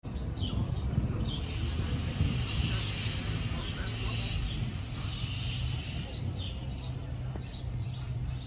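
Small birds chirping, short high calls repeating every half second or so, over a steady low hum.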